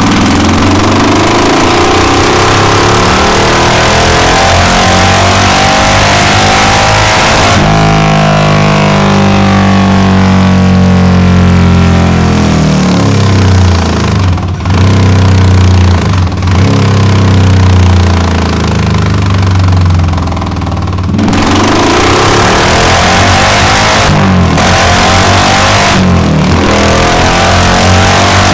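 Yamaha XVS1100 Drag Star's air-cooled V-twin running hard on a dyno through a pair of short slash-cut stainless steel mufflers. About halfway through the revs drop and pick up again several times, then hold steady and high to the end.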